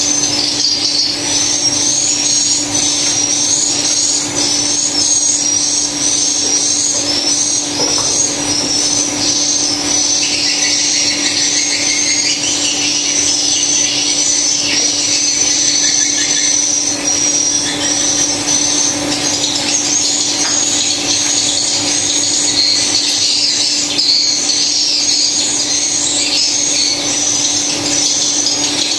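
Swiftlets chirping and twittering in a dense, continuous chorus of high, quick chirps, over a steady low hum.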